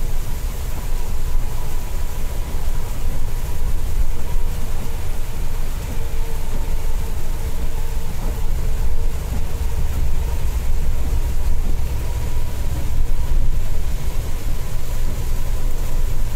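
Steady low engine and road rumble of a Scania K410iB coach running at speed on the highway, heard from inside the cabin, with a faint steady whine running through it.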